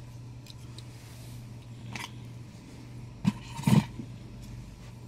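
Handling of a statue and its packaging: a light tap about two seconds in, then two louder knocks close together about a second later, over a steady low hum.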